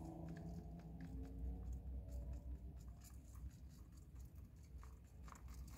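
Faint chewing and small clicks and rustles of food being handled, over a low steady rumble.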